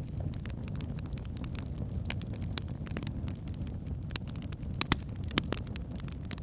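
Wood fire burning in a fireplace: a steady low rumble of flames with scattered crackles and pops of burning logs, two louder pops about five seconds in.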